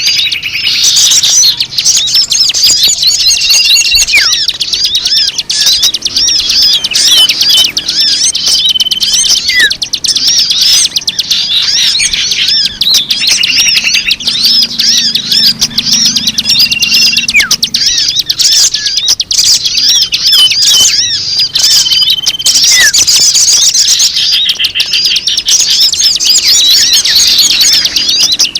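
Dense chorus of many small birds chirping and twittering rapidly and without pause, with short held whistled notes breaking through every few seconds. A mixed-birdsong lure recording, played to draw in wild birds.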